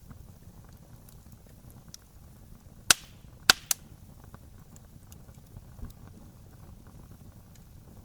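Wood fire burning with a low steady crackle, and three sharp pops of burning wood about three seconds in, the last two close together.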